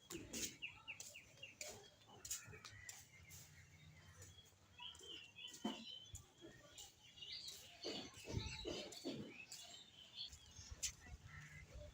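Small birds chirping and twittering faintly, with a quick run of short notes near the start and more chirps through the middle, among scattered light clicks.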